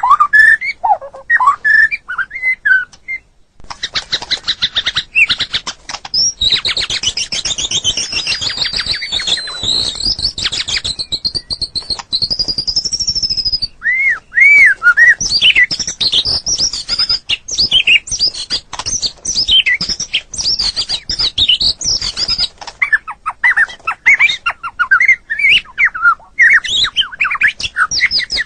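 White-rumped shama singing a long, varied song: fast runs of rapidly repeated notes, a long high whistle, then many rising and falling whistled phrases with short pauses between them.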